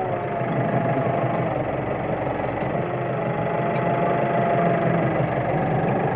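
Farm tractor engine running steadily, with a held whining tone that drifts slightly in pitch.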